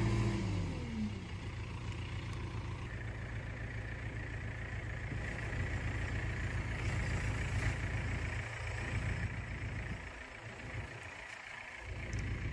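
Heavy diesel engine dropping from high revs to a low steady run in the first second, then running on, a little quieter for a couple of seconds near the end.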